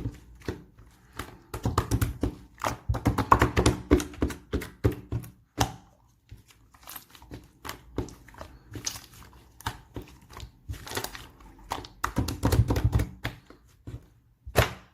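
Irregular taps, thunks and rustling handling noises, coming in busy clusters with sparser stretches between.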